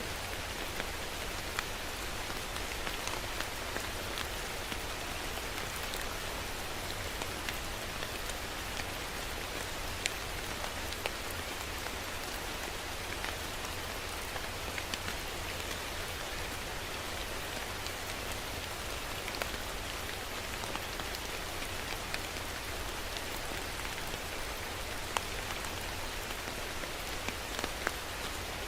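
Steady rain falling, a constant hiss with many separate drops ticking sharply on a hard surface close by.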